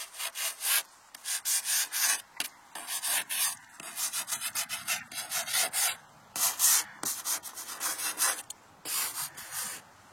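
Repeated rough scraping or rubbing strokes, a few a second in uneven runs with brief pauses.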